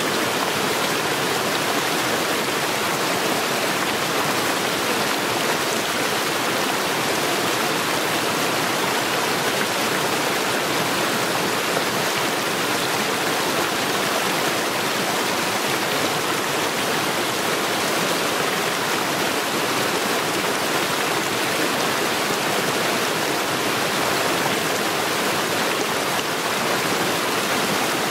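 Stream water rushing steadily, an even, unbroken wash of sound with no pauses.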